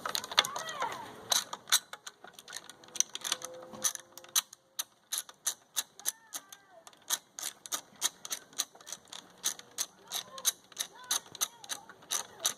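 Ratchet wrench clicking in a steady run of sharp ticks, about three to four a second, as it backs out the bolts holding an inverter generator's muffler, with a short pause partway through. A few short chirps sound between the clicks.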